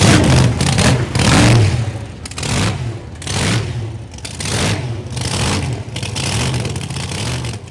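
Car engine revved over and over, in loud swells about once a second.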